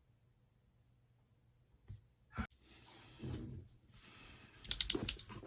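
Handling noise from a package being opened: quiet at first, then a single knock, rustling, and a quick run of sharp clicks near the end.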